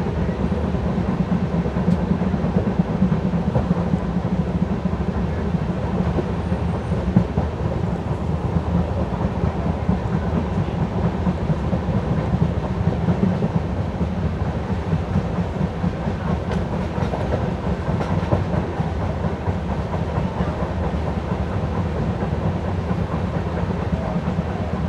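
Steady running noise of an LHB passenger coach at speed, heard from inside at a window seat: wheels rumbling along the track, with one sharper knock about seven seconds in.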